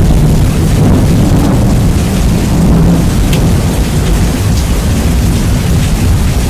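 Rain and thunder, heavily bass-boosted and overdriven: a steady, very loud low rumble with rain hiss and a few drop ticks on top.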